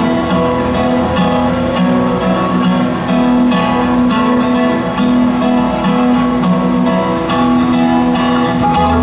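Acoustic guitar playing an instrumental intro in a folk-bluegrass style: quickly picked notes over a steady low note.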